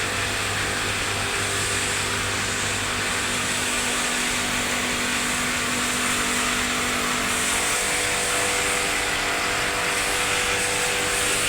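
Steady machine noise: a broad, even hiss over a low hum, with one of the hum tones giving way to a higher one about two-thirds of the way through.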